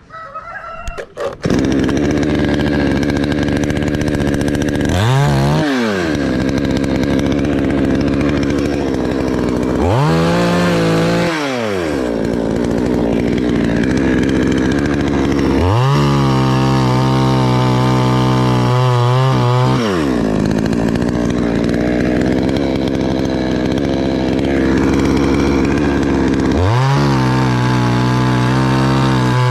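Chainsaw running, coming in suddenly about a second and a half in. It idles between revs, revs up and back down twice, holds high for about four seconds as if cutting, drops back to idle, and revs high again near the end.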